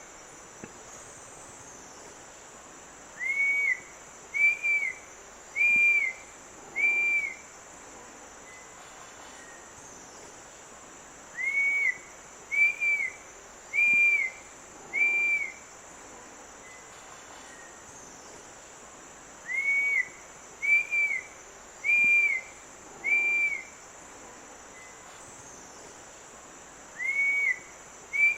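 A bird whistling a phrase of four short, clear notes, repeated about every eight seconds, over a steady high insect drone.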